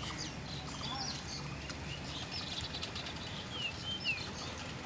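Small birds chirping in short whistled notes, with a few quick falling whistles near the end, over a steady low background rumble.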